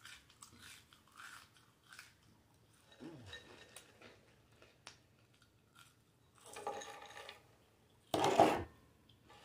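A woman chewing french fries close to the microphone, with small wet mouth clicks and soft crunches. A short, loud sound from her mouth or throat comes about eight seconds in.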